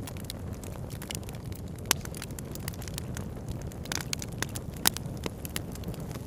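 Campfire crackling, with frequent sharp pops of burning wood, the loudest about two seconds and five seconds in, over a steady low rushing of river water.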